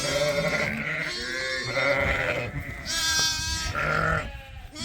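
Sheep and lambs bleating in a barn: a string of about five calls one after another, some overlapping.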